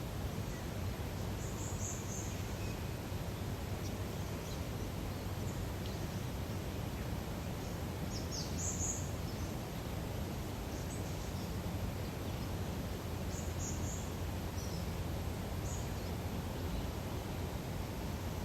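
Lakeside nature ambience: a steady low background rush, with short, high bird chirps scattered through it, the strongest about halfway through.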